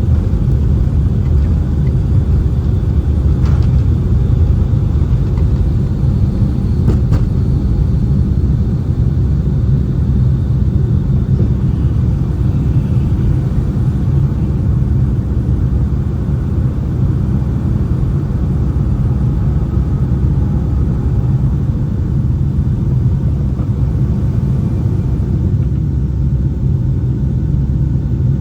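Boeing 757-200 cabin in flight: a steady, loud low rumble of engines and airflow.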